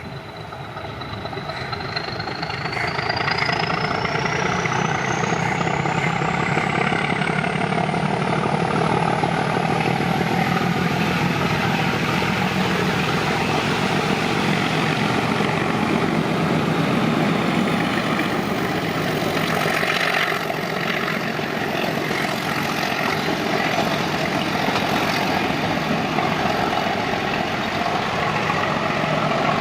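YDM 4 diesel locomotive's engine running hard and steady, growing louder over the first few seconds, with a thin high whine that climbs steadily in pitch through roughly the first dozen seconds.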